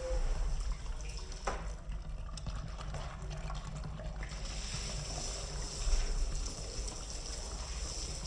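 Water running and trickling as a rug is washed, over a low steady rumble, with a sharp click about a second and a half in.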